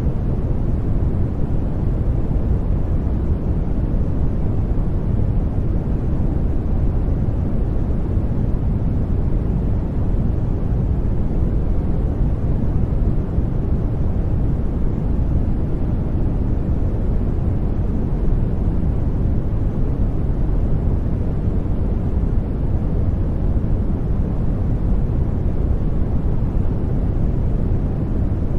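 Steady soft white noise for sleep, weighted to the low end: a deep, even rush with no changes or events.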